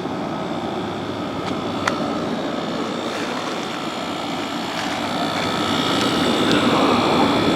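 A 2009 General Electric 12,000 BTU air conditioner running and cooling, its fan and compressor making a steady hum, in working order. One faint click comes about two seconds in, and the sound grows gradually louder over the last few seconds.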